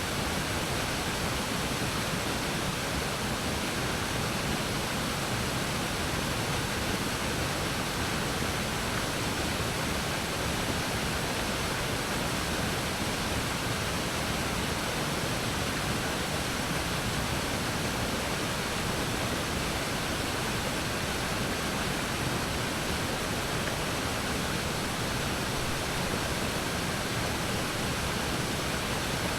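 A waterfall: falling water rushing steadily and evenly, without change.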